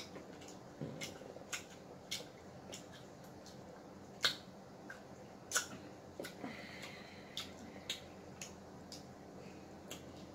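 Close-miked eating sounds of a seafood meal: wet lip-smacking and chewing, heard as irregular soft clicks and smacks, with two louder smacks about four and five and a half seconds in.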